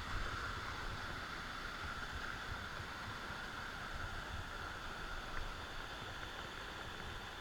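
Waterfall rushing steadily, water falling over rock steps into pools.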